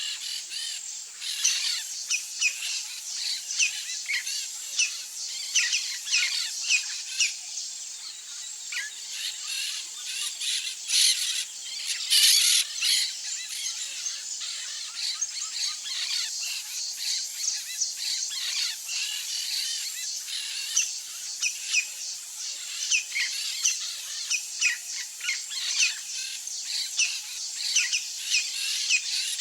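Birds chirping and calling over one another: many short, high chirps in quick succession, louder for a moment about a third of the way in.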